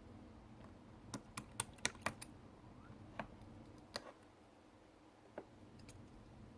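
Slime being pressed and worked by hand, making light sticky clicks and pops: a quick run of about seven about a second in, then a few single ones spread apart.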